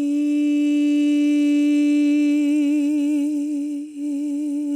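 A voice humming one long held note on a steady pitch. A vibrato comes in about halfway, and there is a short break near the end.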